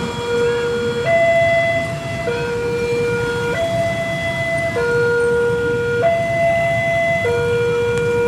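Railway level-crossing warning alarm sounding a two-tone electronic signal, switching between a lower and a higher tone about every second, over a low rumble.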